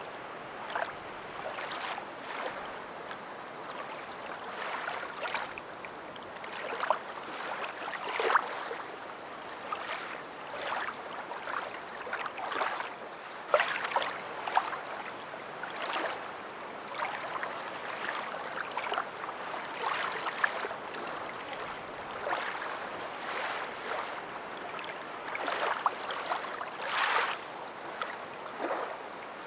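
Water splashing and lapping, a steady wash broken by irregular splashes, a few of them louder.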